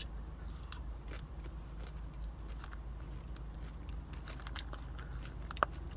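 Close-up chewing of a mouthful of salad: small crunches and moist clicks scattered throughout, with one sharper click near the end.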